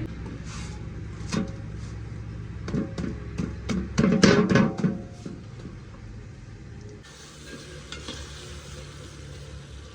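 Food sizzling in a pot while a utensil stirs it, with a cluster of loud knocks and scrapes against the pot about three to five seconds in.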